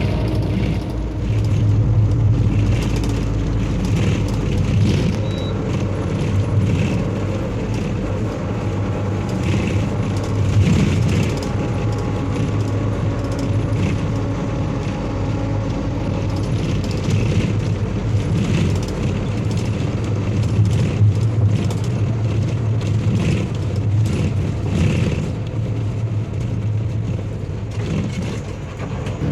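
A motor vehicle's engine running steadily, a continuous low hum with road noise.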